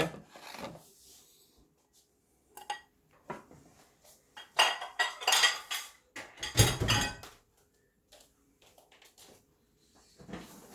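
Clinks, knocks and rattles of kitchenware and containers being handled: a few scattered small clicks, then two louder bursts of clattering about five and seven seconds in, the second with a dull thud.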